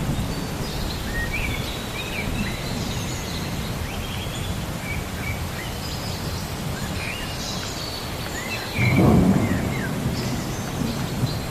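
Rain-and-thunderstorm ambience: a steady wash of rain with birds chirping over it, and a louder low roll of thunder about nine seconds in.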